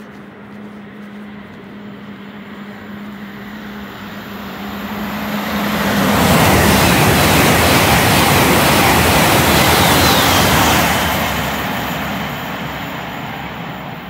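Great Western Railway express train (an Intercity Express Train) running through the station at speed without stopping. A rush of noise builds over about six seconds, stays at its loudest for about five, then fades as the train goes away.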